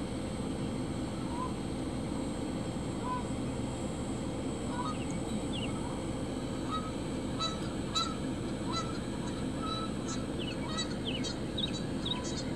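A flock of geese honking, with many short calls overlapping and coming thickest midway, over a steady low background rush.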